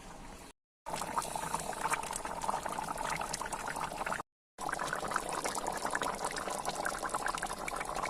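Taro (kochu) curry bubbling and popping as it simmers in the pan, broken twice by brief silences where the recording cuts.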